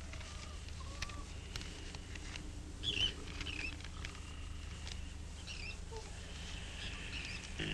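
Faint small-bird chirps in short squeaky groups, about three seconds in and again near six seconds, over a steady low hum, with a few light ticks.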